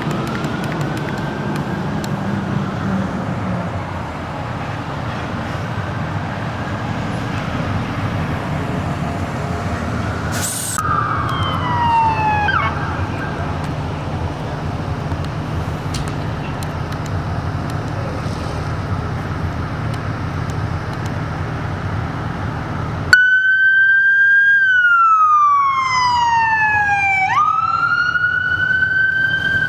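Electronic sirens of responding fire department vehicles wailing over a steady engine drone. A siren passes with a falling pitch about eleven seconds in, and a louder, close siren starts suddenly near the end, sweeping down and back up.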